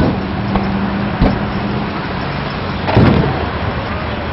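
Fireworks bursting at a distance: a few sharp bangs, the loudest about three seconds in with a short rumbling tail, over a steady low hum.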